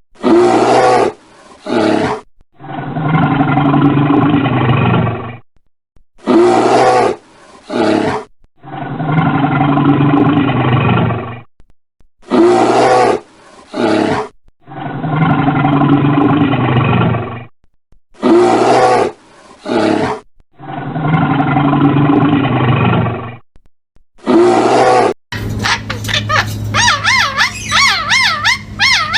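A big cat roaring, each roar about two and a half seconds long, repeated five times about six seconds apart, each preceded by a pair of short, brighter sounds. Near the end a different animal's higher, wavering call takes over.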